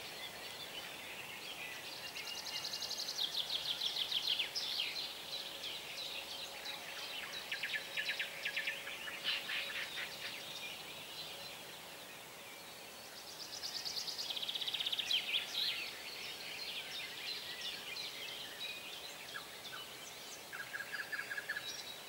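Songbirds singing, with loud trilled phrases about three seconds in and again about fourteen seconds in, rapid stuttering notes around nine seconds and a short fast trill near the end, over a faint steady background hiss.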